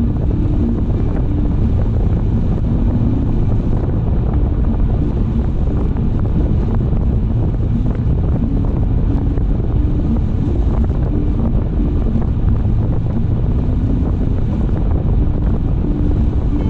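Steady road and wind noise of a car driving, picked up by a dashcam microphone: a dense, even low rumble with no breaks.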